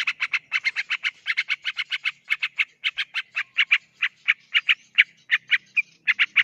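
Yellow-vented bulbul (trucukan) singing a long, rapid chattering run of short notes, about seven a second, with a brief pause near the end. This is the 'ngeropel' rolling song used as a lure to set other trucukan singing.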